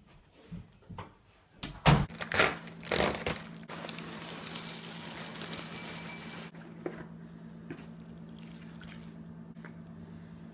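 Kitchen handling sounds while a bowl of cereal is made. A few knocks and clatters of dishes come first, then about three seconds of crinkling, rushing noise like cereal poured from its packet. Under it all, from about two seconds in, runs a steady low hum.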